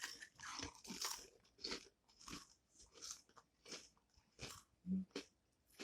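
Mouth chewing crunchy bacon-flavoured puffed crisps, a series of about ten crisp crunches, one or two a second. A brief hum about five seconds in.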